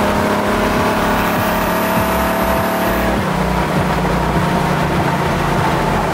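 Car engine pulling hard under acceleration, its note climbing slowly and then stepping down about three seconds in, over steady road and wind noise.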